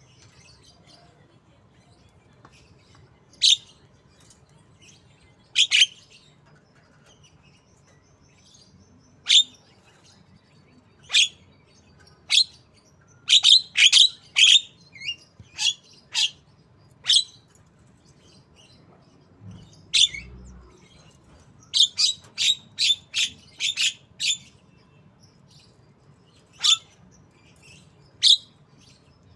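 Javan myna (jalak kebo) mimicking a white-rumped shama (murai batu), giving short, sharp high calls, some single and spaced a few seconds apart, others in quick runs of several notes, over a faint low hum.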